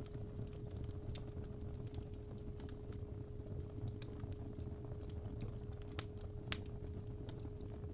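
Fireplace fire crackling, with sparse sharp pops over a low rumble of flames, under a steady 417 Hz sine tone.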